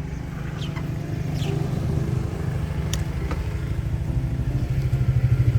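Motorcycle engine idling close by, a steady low pulsing that grows louder toward the end.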